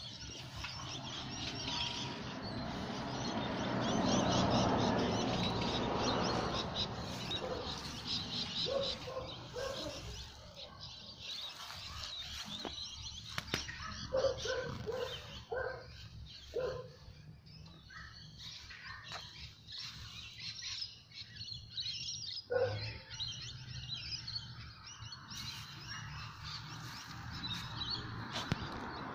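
Birds chirping and calling in a garden, with a swell of rushing noise a few seconds in and a sharp knock later on.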